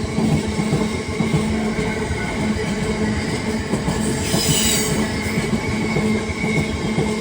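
Wagons of a long container freight train rolling past with a steady heavy rumble and wheel clatter. A brief high wheel squeal comes about four seconds in.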